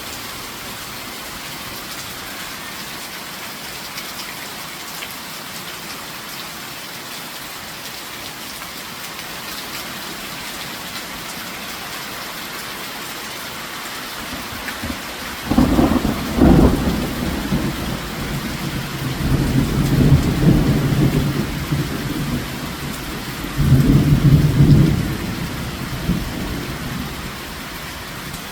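Steady rain falling, with a long low rumble of thunder starting about halfway through that swells three times before fading out near the end.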